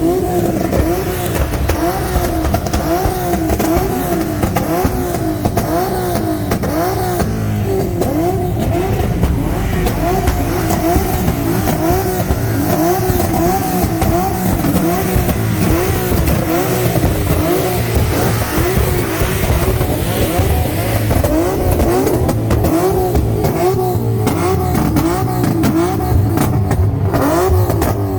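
A car engine revved over and over in quick blips, its pitch rising and falling about one and a half times a second, over the low rumble of other idling engines.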